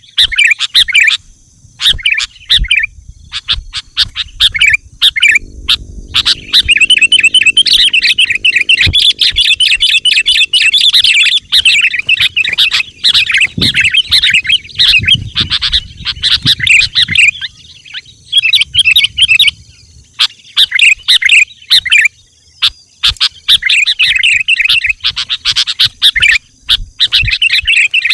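Sooty-headed bulbul (kutilang) singing loudly in fast, chattering phrases. Short bursts with gaps give way, about six seconds in, to a long unbroken run of rapid calls, then break into separate phrases again near the end.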